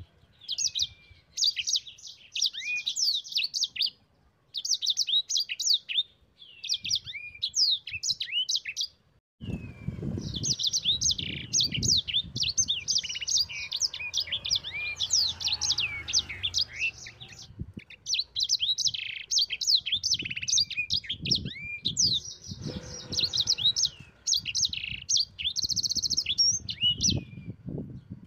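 Sanger songbird singing a fast, high chattering song of rapid sweeping chirps and trills in long bursts, broken by a few short pauses. A low rumble of background noise sits under the song in the middle and again near the end.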